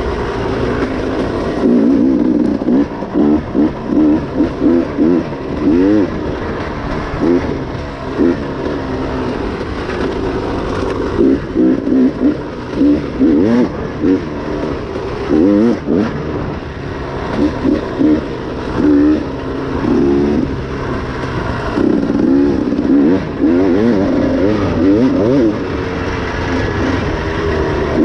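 Dirt bike engine revving up and down over and over as it rides a trail, the throttle opened and closed in short surges every second or so.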